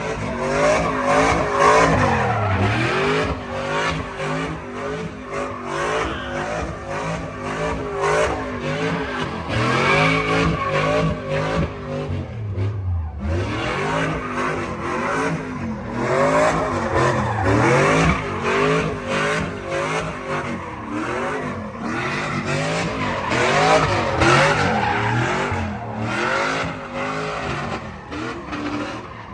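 Pickup truck doing a burnout: the engine revs up and down again and again while the tires squeal, with a brief break about halfway through.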